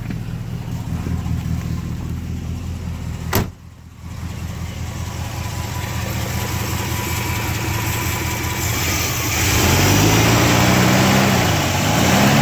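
1969 Buick GS 350's 350 four-barrel V8 idling steadily, then revved twice near the end, the pitch rising and holding before dropping back. It runs smoothly with no obvious knocking.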